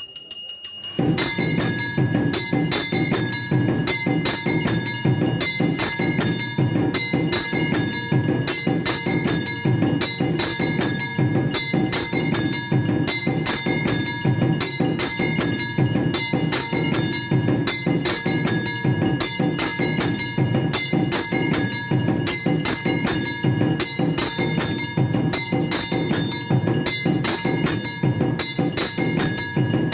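Temple aarti percussion starting about a second in: bells ringing continuously over a rapid, steady beat of struck percussion.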